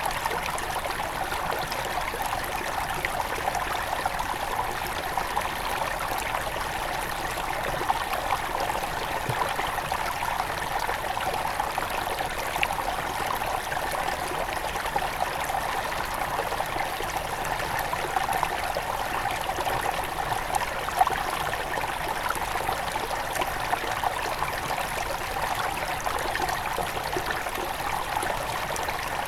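Headwater stream of the Río Gallo flowing and trickling steadily, an even rushing with fine splashy crackle.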